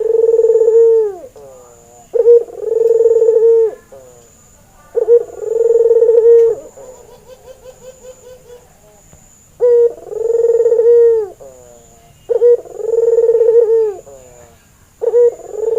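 Albino white Barbary dove (ringneck dove) cooing: six repeated calls, each a short note followed by a long rolling coo. Between the third and fourth calls there is a quick stuttering run of short coos.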